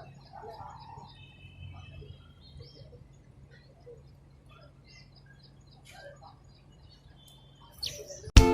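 Small birds chirping and twittering in many short, quick calls, with a few brief held whistle notes, over a steady low hum. Loud music cuts in abruptly at the very end.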